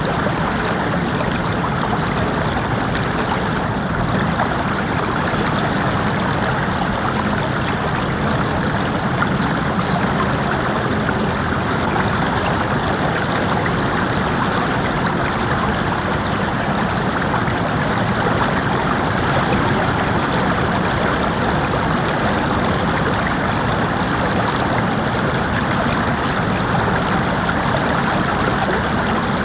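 Water of a stream running over rocks, a steady even rush of flowing water.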